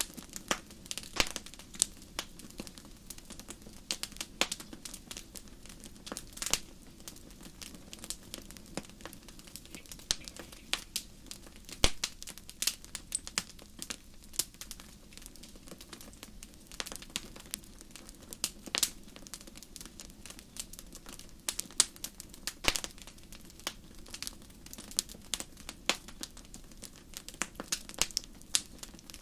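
Wood fire crackling in a fireplace: irregular sharp pops and snaps, several a second in clusters, over a soft low hiss of the flames.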